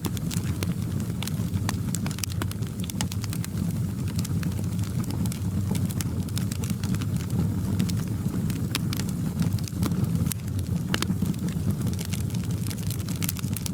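Wood fire crackling in a fireplace: many irregular snaps and pops over a steady low roar of the flames.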